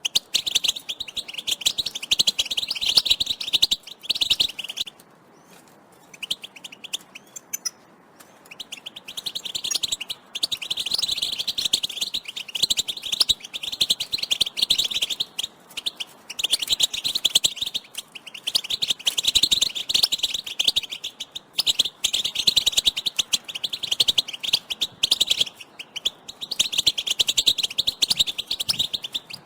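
European goldfinches giving rapid, twittering calls together in bursts, with a break of a few seconds about five seconds in.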